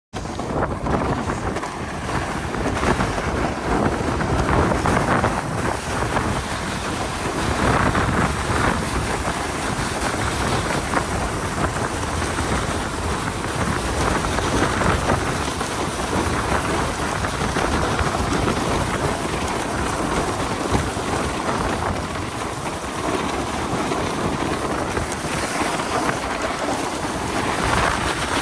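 Steady rushing noise of wind on the microphone and a sled scraping fast over packed snow, with no engine note.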